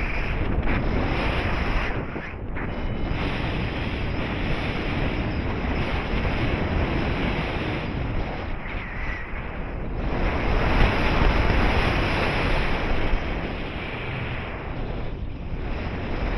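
Wind rushing over the microphone of a paraglider in flight, a dense noise that swells and eases, loudest a little past the middle.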